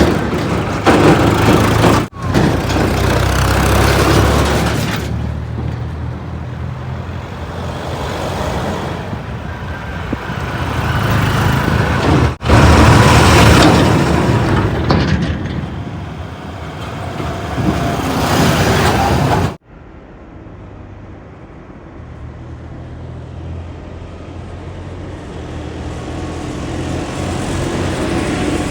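Heavy diesel engines of a backhoe loader and trucks running and revving, rising and falling in loudness, with abrupt cuts about two, twelve and nineteen seconds in; after the last cut the engine sound is quieter.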